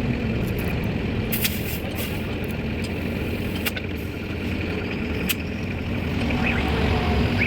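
An engine running steadily with a low hum, with a few sharp clicks or knocks, about four in all.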